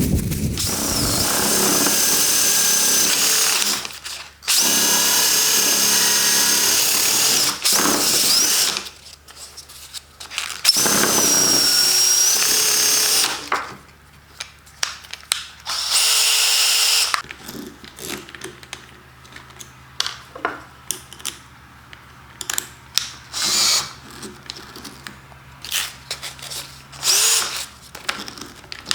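Electric drill running in bursts of a few seconds, its high whine dipping in pitch as it loads up. In the second half the drill stops and a run of light, irregular taps and clicks follows.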